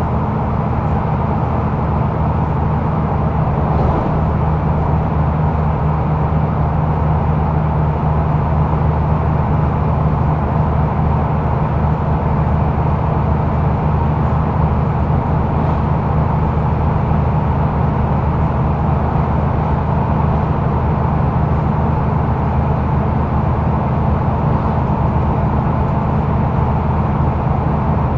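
Mercedes-Benz O530 Citaro Facelift Überland bus heard from inside while driving: a steady engine drone with road and cabin noise at an even, unchanging speed.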